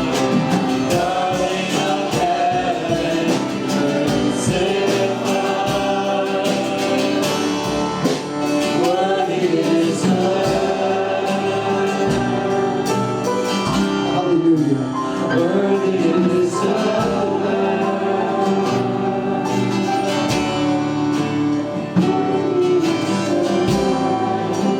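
A church worship band and congregation singing a gospel worship song to guitar accompaniment.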